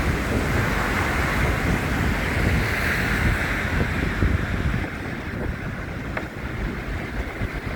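Wind buffeting a phone microphone, a loud gusty rumble under a steady rushing noise, easing a little about five seconds in.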